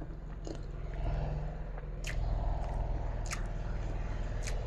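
A person chewing a mouthful of rice and jengkol stew, with four sharp, wet mouth smacks about a second apart, over a steady low hum.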